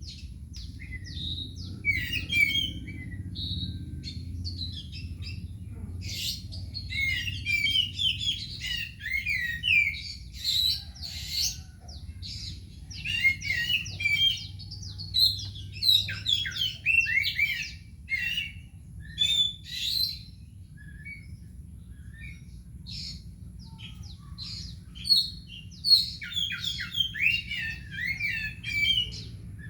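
Oriental magpie-robin singing a varied, fast run of whistled and chattering phrases, falling quiet for a few seconds past the middle and starting again near the end, over a steady low hum.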